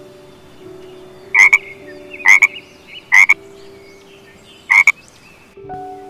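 Frog croaking: four short, loud calls, the first three about a second apart and the last after a longer pause.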